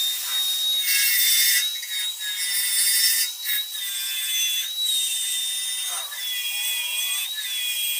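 Compact handheld electric power tool running at speed on steel, its motor giving a high steady whine that sags briefly in pitch again and again as it bites into the metal, over a hissing cutting noise.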